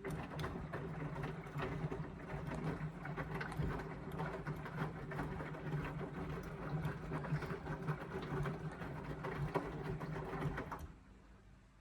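Indesit washing machine running in mid-cycle: a steady motor hum over a busy clatter of small clicks and knocks that starts abruptly and stops about eleven seconds in.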